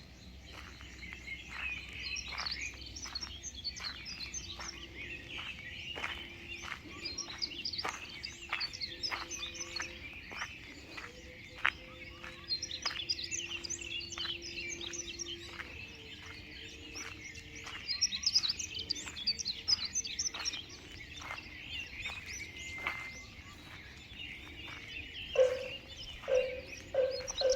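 Many birds chirping and singing at once in a dawn chorus, with a steady run of short clicking calls beneath them. A low repeated tone begins near the end.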